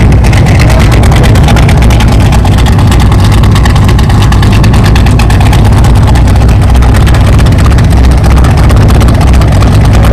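Car engine idling steadily and very loud, a dense low pulsing with no revs.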